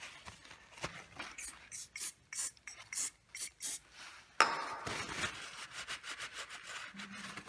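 Short rubbing and scraping strokes on a surface, in quick succession, giving way about four and a half seconds in to a steadier rasping rub.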